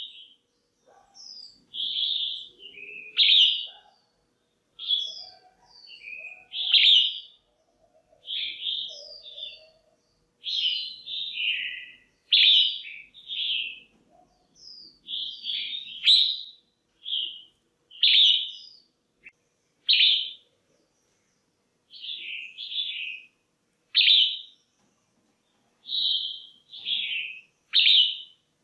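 Red-whiskered bulbul calling: short, bright chirping phrases, one every second or so. These are a female's calls, used to stir up male bulbuls or to pair birds.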